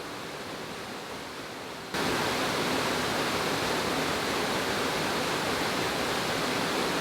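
Sgwd Gwladys waterfall: a steady rush of falling water. It comes in much louder suddenly, about two seconds in, after a quieter hiss.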